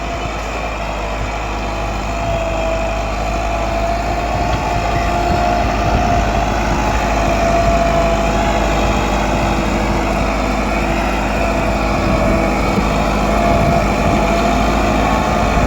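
Massey Ferguson 375 tractor's four-cylinder diesel engine running steadily while pulling a disc harrow.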